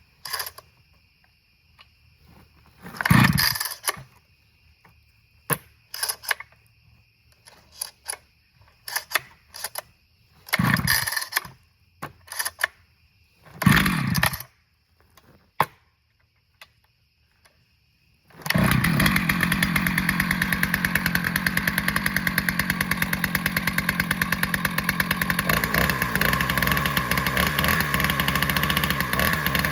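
Husqvarna 2100 two-stroke chainsaw being cold-started: three hard pulls on the recoil starter with clicks of handling in between, then about 18 seconds in the engine catches and runs steadily. The owner finds the idle still a little high.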